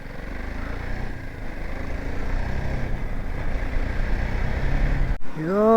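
Motorcycle riding at speed, with wind rush and the BMW G 310 GS's single-cylinder engine making a dense noise that grows louder over about five seconds. Near the end the sound cuts off abruptly and a man's voice starts a long, drawn-out sung note.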